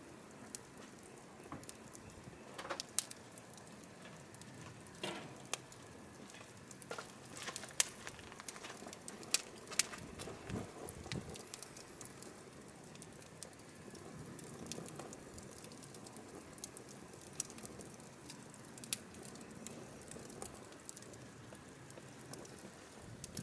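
Firewood burning, crackling with irregular sharp pops and snaps over a low steady hiss.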